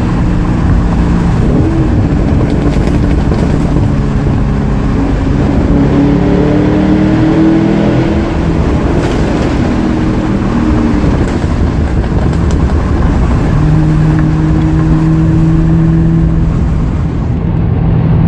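Ford Mustang GT's 4.6-litre three-valve V8 running through FR500S axle-back mufflers, heard onboard: the exhaust note rises under acceleration a couple of times, then holds at a steady pitch for the last few seconds.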